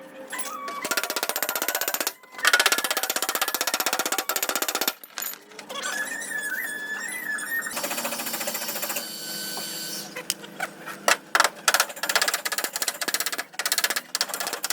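Air-powered body-shop tool, of the air hammer or air chisel kind, chattering in bursts of rapid strikes, with separate sharp knocks in the later part.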